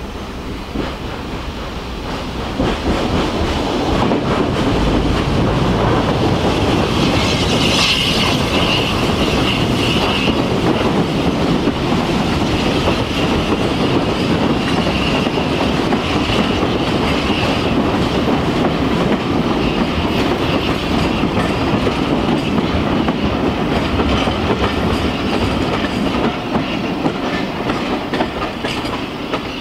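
Railway passenger coaches rolling past beneath a bridge, the wheels clattering over the rail joints. A high squeal rides over the rumble for a stretch in the middle.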